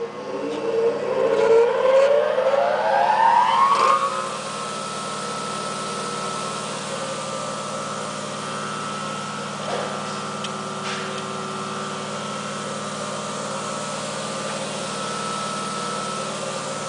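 Baldor 8107W bench grinder's 3/4-horsepower motor spinning up, its whine rising in pitch over about four seconds, then running at full speed with a steady hum and whine.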